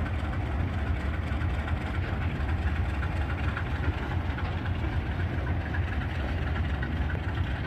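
Diesel locomotive engine idling steadily, with a deep low hum and no change in pitch.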